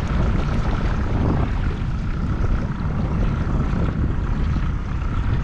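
Boat motor running steadily while the boat moves across the lake, a constant low drone with a faint steady whine above it, plus wind and water noise.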